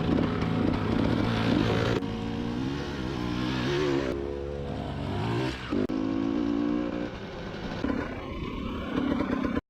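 Dirt bike engine revving, its pitch rising and falling repeatedly as the throttle is worked.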